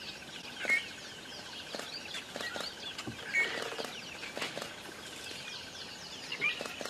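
Many birds chirping: short, quickly falling notes repeated over a steady rapid trill, with a few louder calls standing out.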